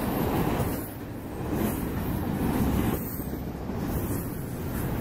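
Double-stack intermodal container well cars rolling past at speed: a continuous rumble and rattle of steel wheels on rail, swelling and easing as each car goes by.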